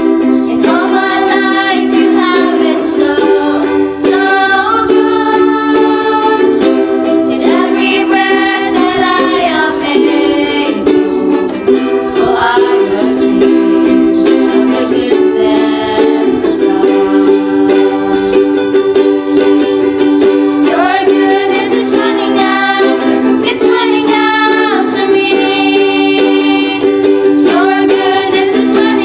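Ukulele strumming chords to accompany singing of a worship song.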